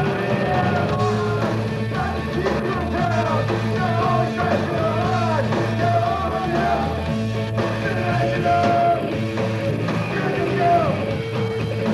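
Punk rock band playing live, with bass, guitar and drums under a sung and shouted vocal.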